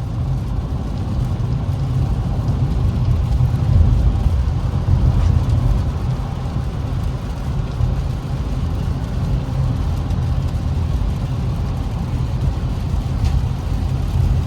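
Inside the cabin of an Infiniti Q50 driving on a wet road: a steady low drone of engine and tyre noise, swelling slightly about four seconds in.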